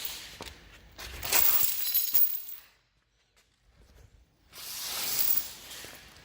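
Metal tow chains rattling and clinking as they are handled, in two bursts about three seconds apart.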